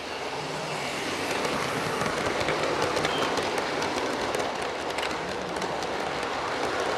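OO gauge model locomotives running a train along the layout track: a steady rush of wheels and motors on the rails with light clicks over the rail joints, growing louder about a second in.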